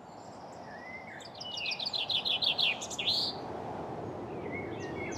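Birds singing, with a quick run of high chirps starting about a second and a half in and more calls near the end, over a steady rushing background noise.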